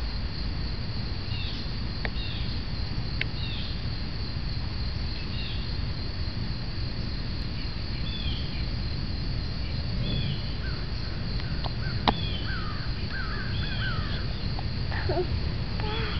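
Birds calling outdoors: short, curved chirping calls repeating every second or so, coming thicker after about ten seconds, over a steady low rumble. A single sharp click about twelve seconds in.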